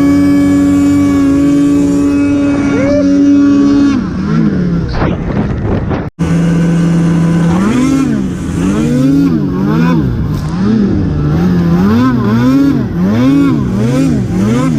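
Snowmobile engine running at a steady high pitch, then dropping off. After a break about six seconds in, the throttle is blipped up and down over and over, a little more than once a second.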